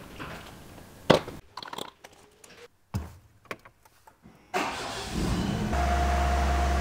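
A few clicks and handling noises, then about four and a half seconds in, a Renault Megane 2 1.6 petrol engine cranks, catches and settles into a steady idle while its oil is being flushed.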